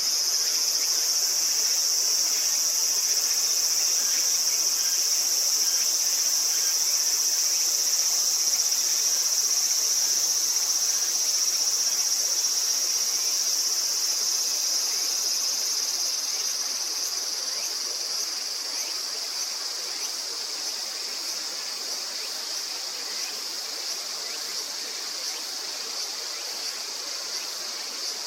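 Insects calling in a steady, high-pitched continuous drone, easing off somewhat about halfway through.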